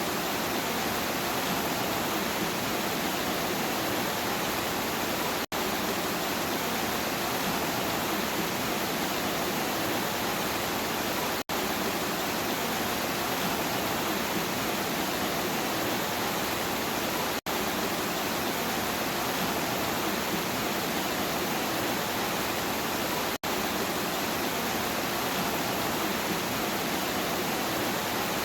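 Steady rain, an even hiss of falling water, broken by very short dropouts about every six seconds.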